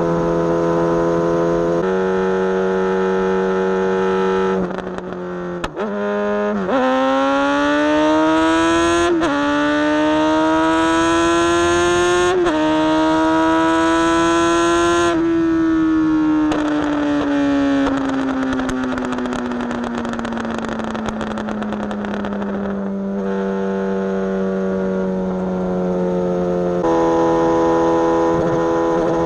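Suzuki GSX-S750's inline-four engine under way. It holds a steady note, dips briefly about five seconds in, then accelerates through three upshifts, its pitch climbing and falling back at each shift. Off the throttle, the note then falls slowly as the bike slows, and it steadies again near the end.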